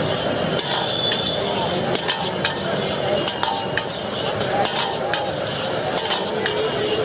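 Food sizzling as it fries in a pan, stirred with a metal utensil that clicks and scrapes against the pan every so often.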